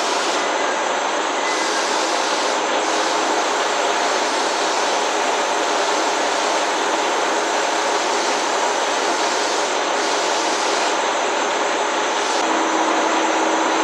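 Train running steadily at a station platform: a continuous, even rail noise with a faint steady hum that grows a little louder near the end.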